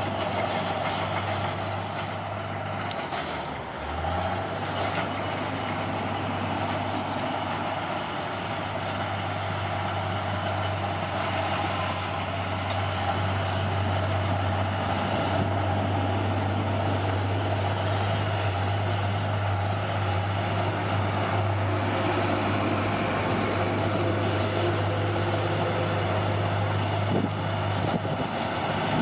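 Caterpillar D6R bulldozer's diesel engine running steadily under work, with a brief dip in its note about three to four seconds in.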